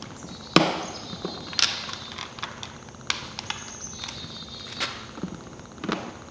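Several separate sharp knocks and clinks of tools and parts being handled on a dirt bike during reassembly, two of them followed by a brief high metallic ring.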